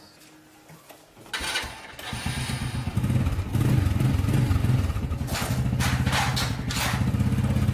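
A 110cc motorbike's single-cylinder engine starting: a short burst of cranking a little over a second in, then the engine catches and runs with a pulsing exhaust beat, getting louder as it is revved.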